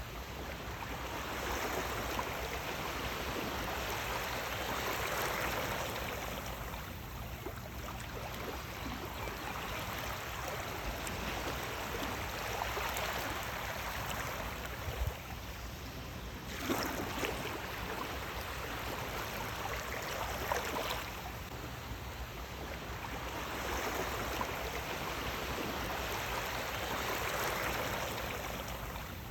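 Sea waves washing in and drawing back, the rush of water swelling and fading every several seconds, with a few brief splashes.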